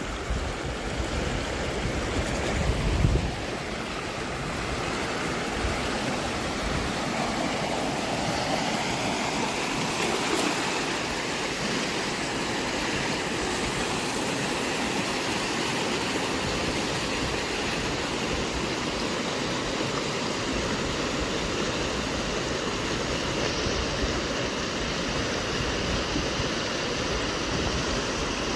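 Fast-flowing river water rushing, a steady even noise, with a few low thumps in the first three seconds.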